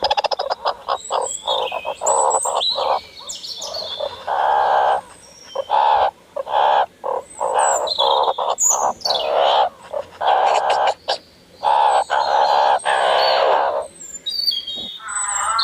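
Birds calling: a run of repeated short squawks with thinner high chirps in between.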